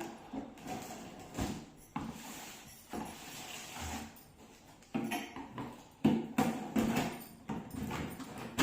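Cardboard shipping box being opened and handled: irregular knocks and thumps of the flaps and box, with a stretch of rustling packaging in between.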